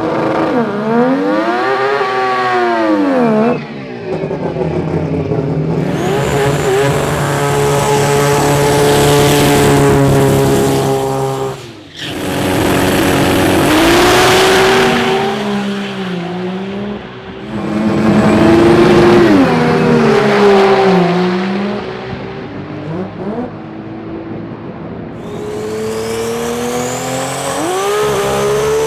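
Drag racing car engines revving hard, their pitch repeatedly climbing and dropping as the throttle is blipped and held, heard as several separate runs with abrupt breaks between them.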